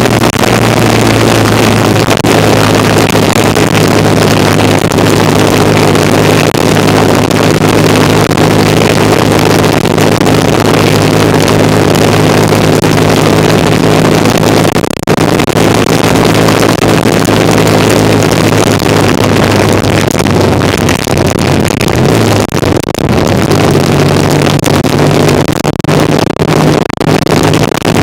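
1975 Kawasaki KZ400 parallel-twin engine running steadily under way, over heavy wind and road noise. About three-quarters of the way through, the engine note drops briefly and then picks up at a higher pitch.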